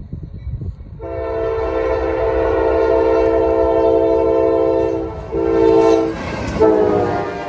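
Norfolk Southern diesel locomotive's multi-chime air horn sounding one long blast of about four seconds, then two short blasts, over the low rumble of the train.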